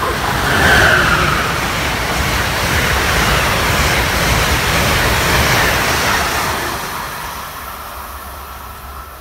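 Amtrak passenger train behind a Siemens ACS-64 electric locomotive passing at speed: a steady rush of wheels on rail and air. It is loudest as the locomotive goes by about a second in, holds as the coaches pass, then fades over the last few seconds.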